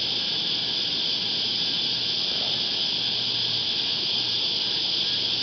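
A chorus of cicadas singing steadily: an even, high buzz.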